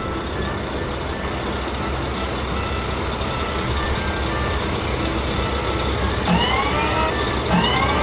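Engine sound effect of a cartoon wheel loader, running steadily with a low rumble. Two short rising tones come in over it in the second half.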